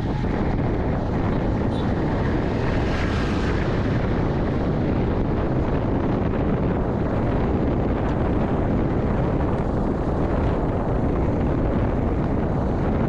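Steady wind rushing over the microphone of a moving vintage Yamaha motorcycle, with road and engine noise underneath.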